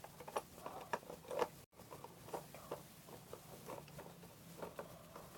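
Faint, irregular small clicks and light rustling from a plastic transforming-robot toy figure being handled.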